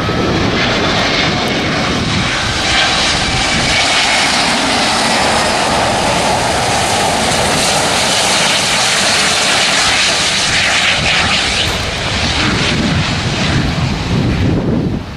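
Jet airliner's engines passing close by, a loud steady rush of engine noise with a faint, gently falling whine in the first few seconds.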